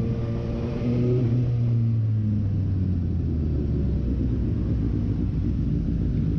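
Suzuki GSX-S750's inline-four engine running at low road speed, heard through a helmet-mounted camera with wind rumble on the microphone. The engine note holds steady for about two and a half seconds, then sinks into a low rumble.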